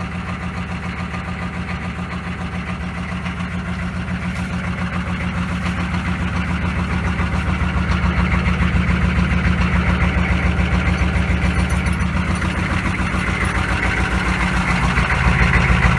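GM 6.5-litre turbo-diesel V8 idling with an even, rhythmic pulse shortly after a cold start. It grows louder over the first half and again near the end.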